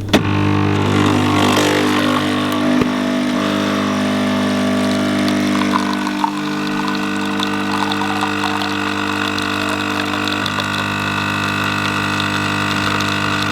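Motorcycle engine idling steadily, an even unchanging tone that starts abruptly.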